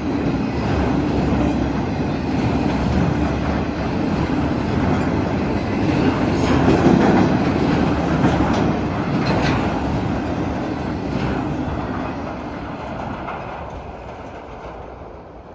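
Norfolk Southern manifest freight train's cars rolling past, wheels clicking over the rail joints with a steady rumble. The sound fades over the last few seconds as the train moves away.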